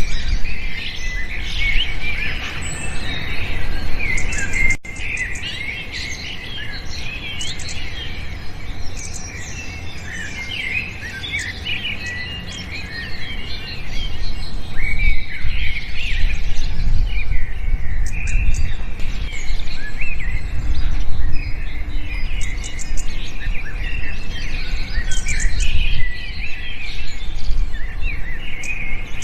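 Many small birds chirping and trilling at once, short overlapping calls that go on without a break, over a steady low rumble.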